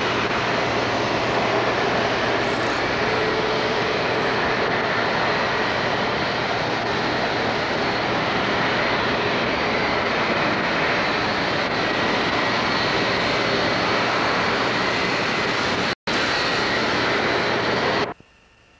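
Jet airliner engines running with a steady, loud roar and a faint high whine. The sound breaks off for an instant about 16 seconds in and stops abruptly near the end.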